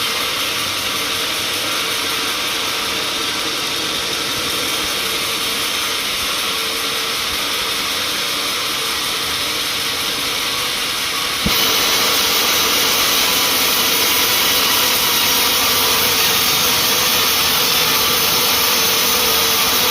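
Sawmill machinery running steadily, a continuous mechanical noise with a faint steady hum; it jumps suddenly louder a little over halfway through and holds at the new level.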